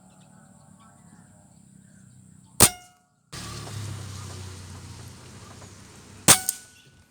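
Two air-rifle shots about three and a half seconds apart, each a sharp crack with a brief metallic ring. The second is followed closely by a smaller click.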